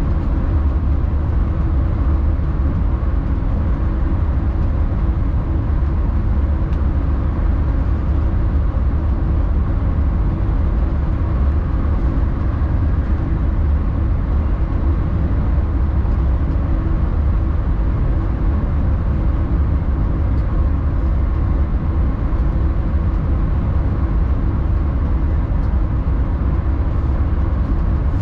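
Alstom X40 electric multiple unit on the move: a steady low rumble of the running train with a faint steady hum on top.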